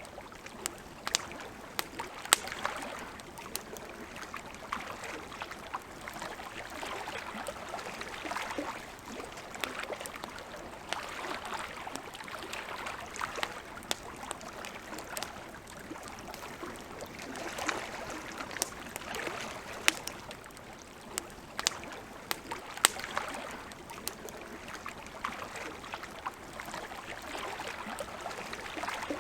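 Campfire crackling, with sharp irregular pops and snaps, over a soft wash of lake water that swells and fades every few seconds.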